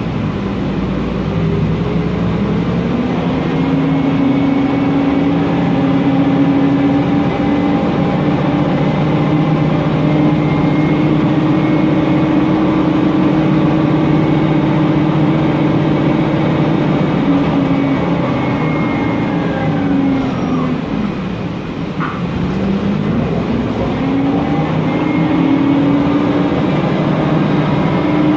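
Mercedes-Benz Conecto NGT city bus under way: the whistle-like whine of its Voith DIWA automatic gearbox and its CNG engine rise in pitch as the bus accelerates, hold steady, then wind down around twenty seconds in as it slows, before rising again as it picks up speed.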